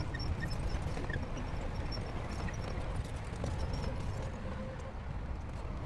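Shantui crawler bulldozer working: a steady low diesel engine drone with a fast, even ticking clatter over it.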